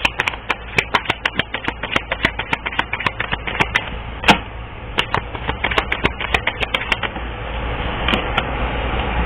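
Tarot cards being shuffled by hand, a quick run of light card slaps and clicks with one sharper snap about four seconds in. The clicks thin out about seven seconds in as a steady rushing noise grows louder.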